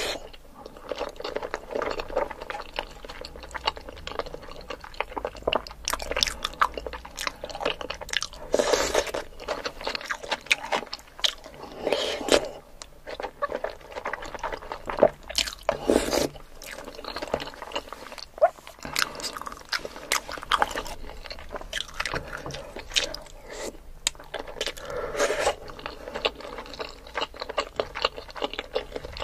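A person eating close to the microphone: crisp crunching bites and wet chewing of sauce-coated food, in irregular bursts every few seconds.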